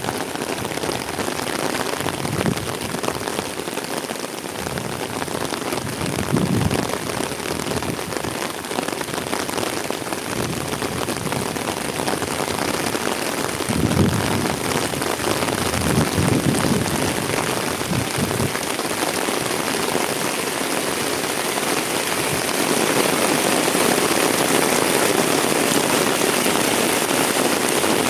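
Heavy rain falling steadily, with a few soft low thuds now and then; the rain grows a little louder near the end.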